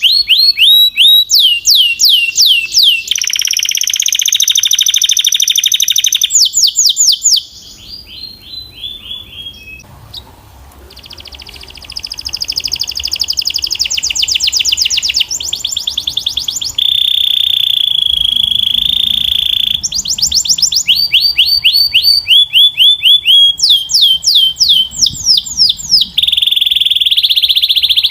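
Belgian canary singing: phrase after phrase of rapid trills of repeated falling notes, some passages held as a steady buzzing rattle. A few seconds in the song drops to a soft, quiet passage, then loud trills resume.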